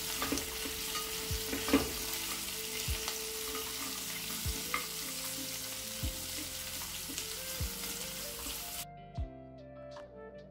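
Onion, whole spices, dry red chillies and cashews sizzling in hot oil in a pan as they are stirred, with a few sharp knocks. Near the end the sizzling cuts off suddenly, leaving background music with a soft, steady beat.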